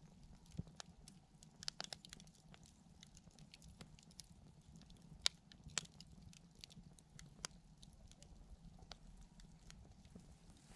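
Wood campfire crackling: sparse, irregular sharp pops and ticks from the burning wood, with a handful of louder snaps.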